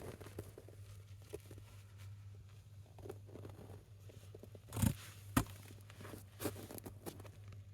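Firewood burning in a small fire, crackling with sparse faint pops and two louder sharp snaps about five seconds in, over a steady low hum.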